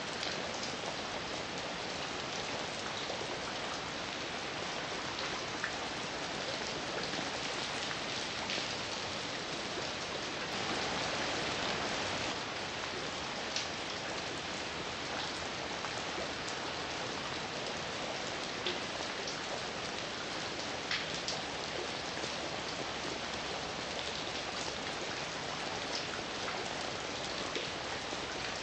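Steady heavy rain falling, with scattered individual drops ticking on a surface and a brief swell in intensity about ten seconds in.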